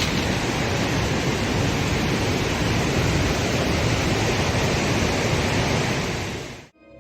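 Derecho storm winds making a steady, loud rush of noise, which cuts off abruptly near the end.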